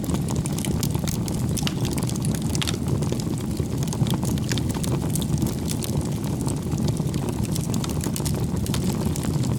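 Bonfire burning: a steady low rushing of flames with frequent sharp crackles and pops of burning wood.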